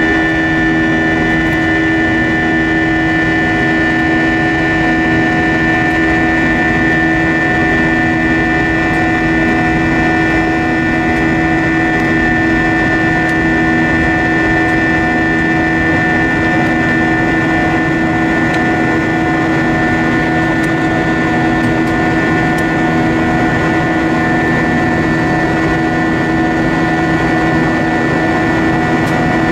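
Steady cabin drone of an Airbus A320-232 in flight, its two IAE V2500 turbofan engines running at constant power, with a steady hum of several fixed tones over a low rushing noise.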